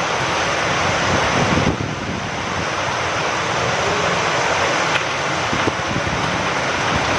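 Steady rain falling with wind, a constant hiss with a brief slight lull about two seconds in and a few faint drip ticks later on.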